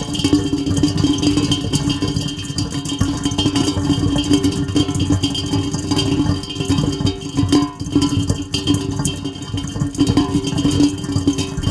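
Heavy rain falling steadily in a dense crackling patter, with a steady low tone held beneath it.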